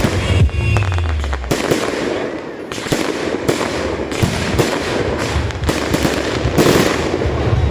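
Fireworks going off in quick succession, dense crackling with sharp bangs, over music whose bass is heard in the first second and a half.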